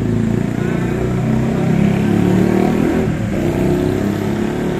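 Motor vehicle engine running loud, its revs rising and falling, heaviest around the middle.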